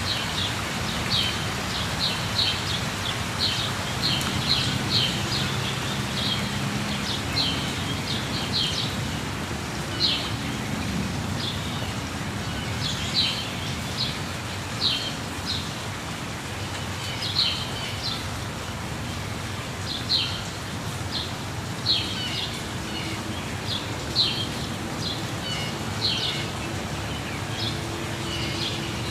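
Steady rush of a waterfall with birds chirping over it: short, high chirps repeated every second or so.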